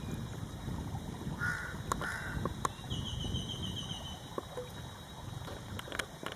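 Birds calling: two short calls about one and a half seconds in, then a rapid high trill of repeated notes about three seconds in, over a low rumble.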